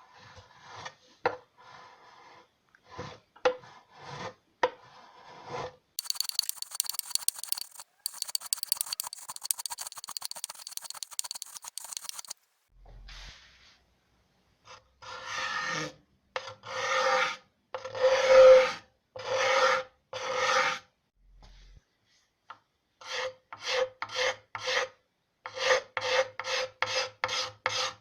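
Hand rasp or file working wood in back-and-forth strokes: a few light scattered strokes, a spell of continuous finer scratching, then long strokes about one a second, turning to quicker short strokes near the end.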